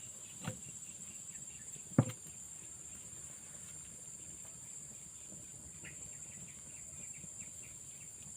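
Steady high-pitched drone of insects, with a light knock about half a second in and a much louder knock about two seconds in.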